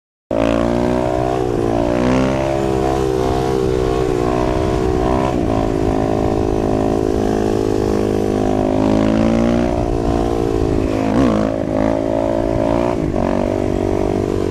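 Dirt bike engine running under way, its pitch rising and falling as the revs change. It cuts in abruptly just after the start, with wind noise over it.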